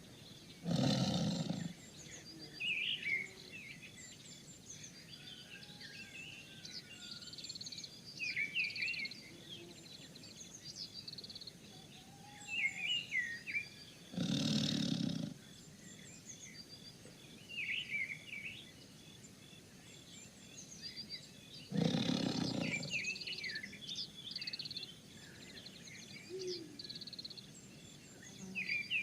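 A big cat roaring three times, each roar about a second long: once near the start, once about 14 seconds in and once about 22 seconds in. Birds chirp steadily in the background between the roars.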